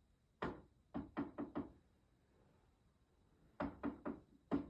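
Knocking on a door: a single knock, then four quick raps, then after a pause another run of quick raps.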